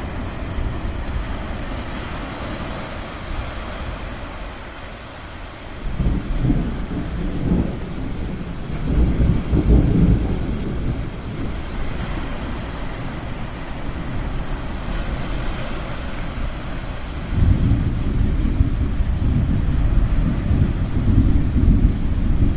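Thunder rolling over a steady wash of ocean waves: one deep rumble starts about six seconds in, and a longer one sets in about seventeen seconds in.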